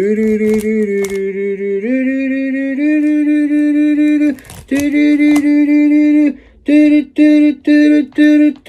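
A single voice singing without words, holding long steady notes that step up in pitch, then a string of short repeated notes near the end.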